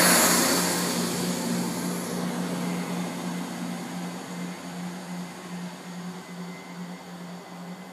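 A train that has just passed through the station moving away, its noise fading steadily. A low hum with a slow, regular pulse runs under it, and the high rushing sound dies away in the first couple of seconds.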